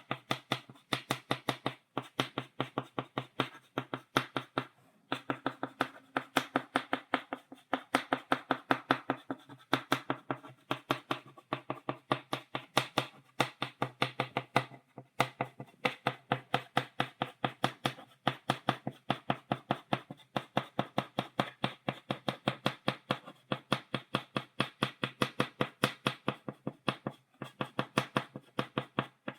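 Chalk tapping against a blackboard to stipple dots, rapid sharp taps several a second, with a few brief pauses.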